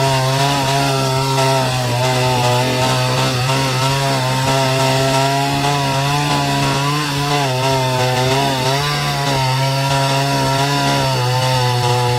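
Large wood chipper running steadily while processing trees. Its engine's pitch dips and recovers several times as the load changes.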